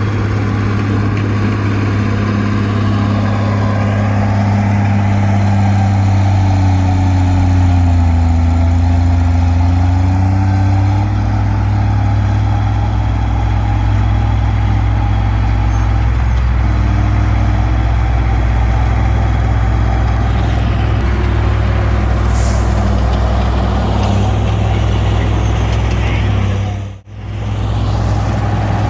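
Komatsu D20P bulldozer's diesel engine running steadily and loudly while clearing brush. Its note sags for a few seconds and then comes back up, and the sound cuts out for an instant near the end.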